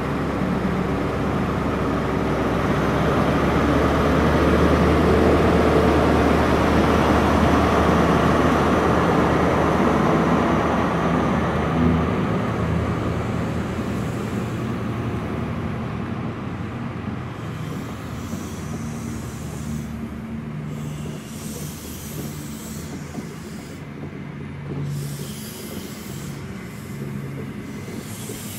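A Class 43 HST power car's diesel engine working hard as the train moves off. It grows louder over the first few seconds, then fades as the power car draws away. After that comes the steady rumble and wheel noise of the Mk3 coaches rolling past on the track.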